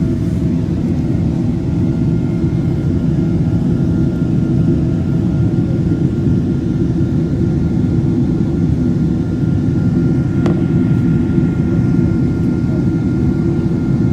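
Airliner's jet engines and airflow during takeoff: a steady, loud, low rumble with a faint high whine, and a single click about ten seconds in.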